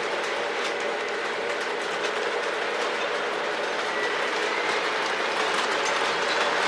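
Lionel SD70ACe model diesel locomotive and its cars running on the layout's track: a steady rolling and motor noise that grows slightly louder toward the end.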